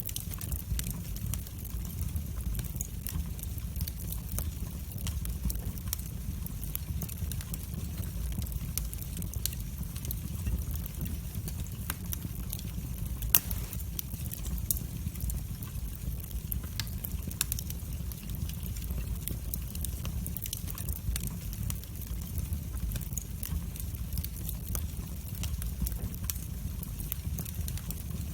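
Wood fire burning in a fireplace: a steady low rumble of flames with frequent small crackles and snaps, and one louder pop about halfway through.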